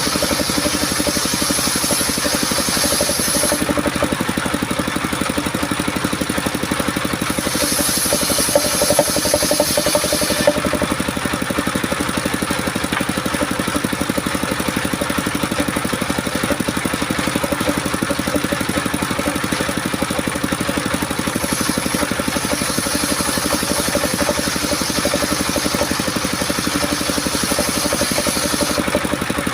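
Homemade engine-driven circular sawmill running steadily. A high hiss of the blade cutting coconut wood comes and goes in three stretches: at the start, from about eight to ten seconds in, and again for most of the last third.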